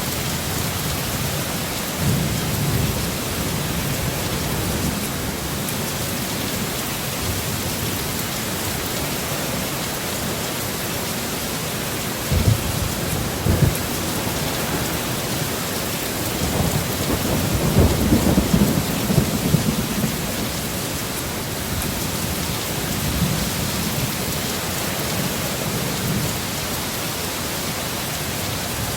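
Heavy steady rain in a thunderstorm, with thunder rumbling several times: two sharp cracks a little under halfway through and a long, loud rumble about two-thirds in, with softer rumbles early and near the end.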